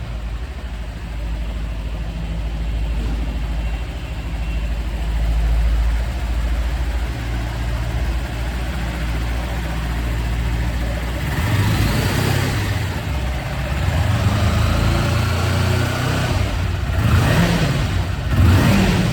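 Kawasaki Versys 300's parallel-twin engine idling steadily, blipped up and back down twice: once about two-thirds of the way through and again near the end.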